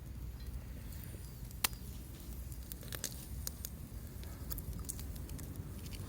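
Campfire crackling, with scattered sharp pops, a stronger one about one and a half seconds in, over a steady low rumble.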